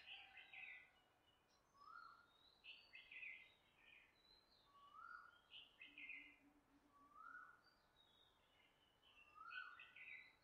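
Birds calling in the background: a short whistled note that rises and falls, repeated four times about every two and a half seconds, among clusters of higher chattering chirps.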